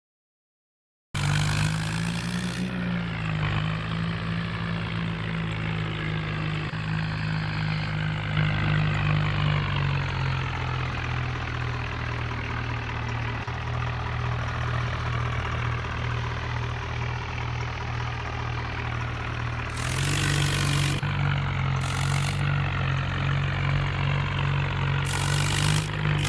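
Tractor engine running steadily, starting about a second in. Its speed drops slightly about ten seconds in and picks up again, a little louder, near twenty seconds.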